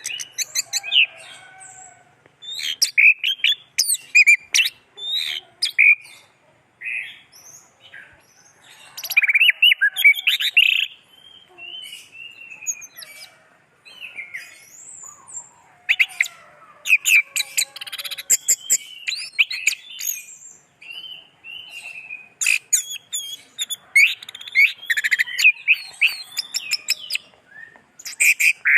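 Orange-headed thrush singing a varied song of quick whistled phrases and rapid clicking, chattering notes, in bursts separated by short pauses.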